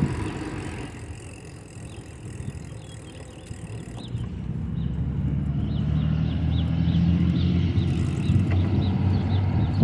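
Riding a bicycle on a windy day: wind rumbling on the microphone along with tyre noise. It grows louder from about four seconds in, with faint, short, high chirps repeating a few times a second.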